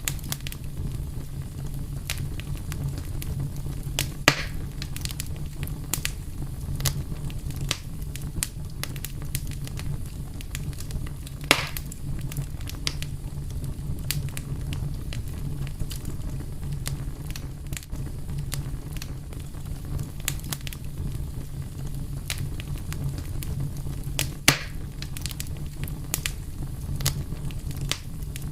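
Fire crackling: a steady low rumble with frequent sharp crackles, and three louder pops, about four seconds in, about twelve seconds in, and about four seconds before the end.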